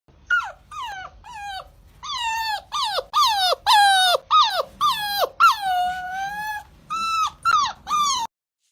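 A dog giving a rapid series of high whining yelps, each cry dropping in pitch, with one longer drawn-out whine about two thirds through; the sound cuts off suddenly just before the end.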